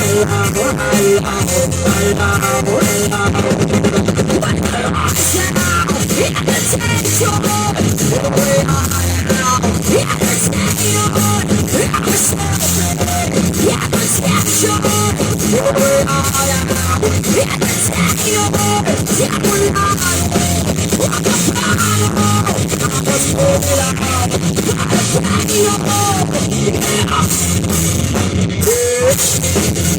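Live rock band playing loud, with a drum kit keeping a steady beat under electric guitar; the lead line bends up and down in pitch.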